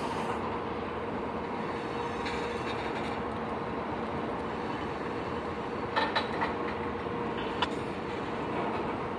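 Freight train of tank cars rolling past at a grade crossing, a steady rolling rumble of steel wheels on rail. A few sharp clacks come about six seconds in and again a moment later.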